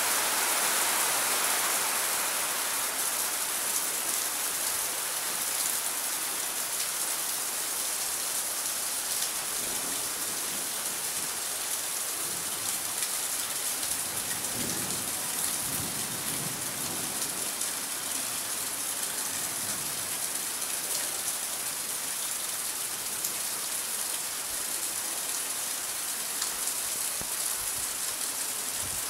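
Steady rain falling, an even hiss, with a few soft low gusts of wind about halfway through.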